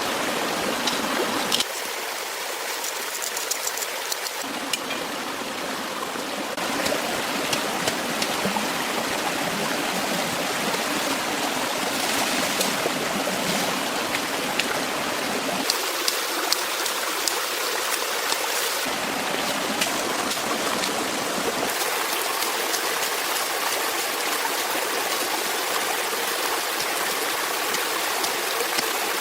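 Stream water flowing, a steady rushing with small splashes; its low rumble drops out and returns abruptly a few times.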